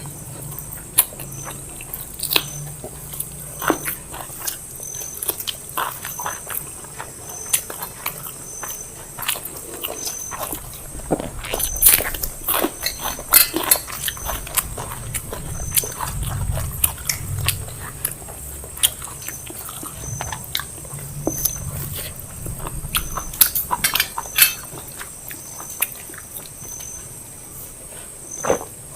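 People eating biryani with their hands: chewing and lip-smacking, many short irregular clicks of the mouth.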